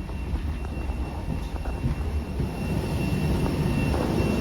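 Jet aircraft noise heard while boarding: a steady low rumble with a thin, steady high-pitched whine, growing slowly louder.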